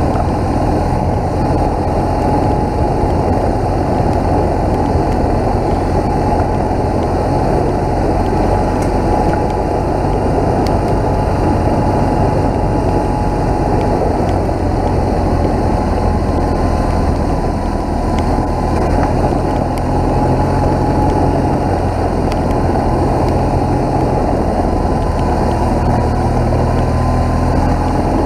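BMW motorcycle engine running steadily on the move, its pitch stepping up and down a little now and then, under a constant rush of wind and road noise.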